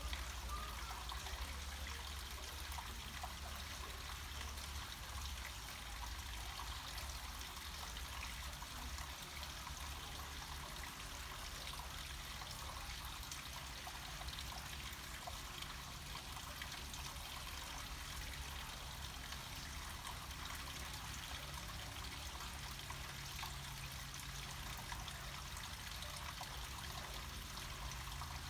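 Water trickling steadily down a small mountain stream, an even rushing hiss with a steady low rumble underneath.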